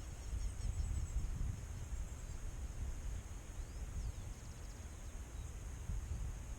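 Open-air ambience: insects droning steadily at a high pitch, a few short bird chirps about halfway through, and wind rumbling on the microphone.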